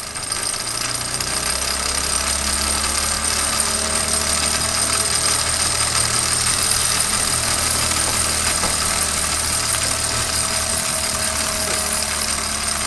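Steam whistle of a Wilesco D30 model steam tractor blowing steadily and loudly, with a low hum beneath: the boiler is over-pressured and the whistle is spitting hot water.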